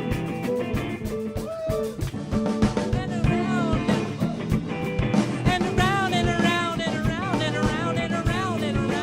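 A funk-soul band playing an improvised groove: drums keeping a steady beat under guitar and bass. About three seconds in, a wordless lead melody comes in over it with bending, wavering pitch.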